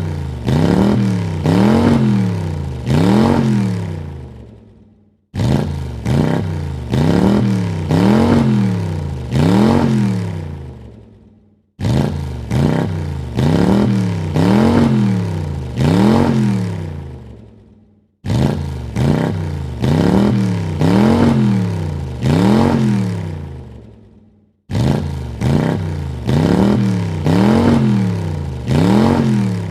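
A car engine blipped three times in quick succession, each rev rising and falling in pitch, then dying away. The same short recording repeats about every six and a half seconds, five times in all.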